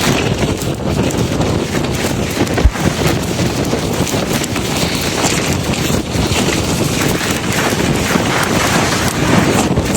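Strong blizzard wind gusting across the microphone: a loud, continuous rushing and buffeting with no letup.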